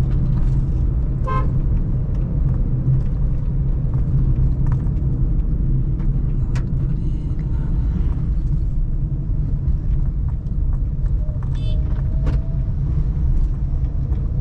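Suzuki Celerio's small three-cylinder engine and road noise making a steady low drone while driving in city traffic. Short vehicle-horn toots cut in about a second in, again around the middle, and near the end.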